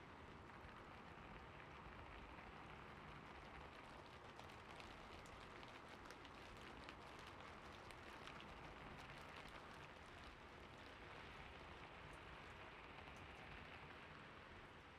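Soft, steady background rain, with faint scattered ticks over it.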